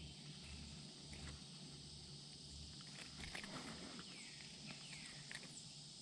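Faint creekside ambience: a steady high insect hum, with several short falling chirps in the second half and a few light clicks and rustles around the middle.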